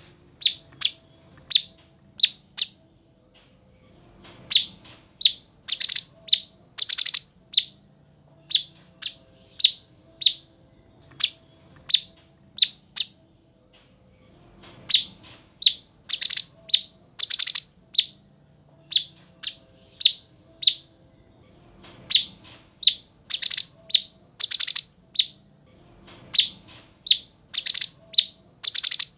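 A cucak cungkok songbird singing in full voice: a steady run of short, sharp chirps about two a second, broken every few seconds by loud, rapid, high trilled bursts.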